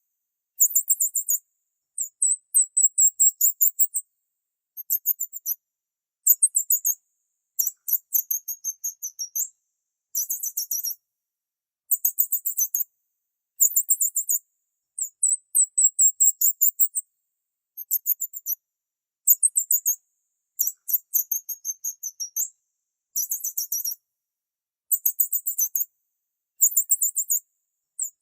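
A small bird chirping in a run of very high-pitched phrases, each about a second long and made of rapid notes, repeated one after another with short silent gaps between.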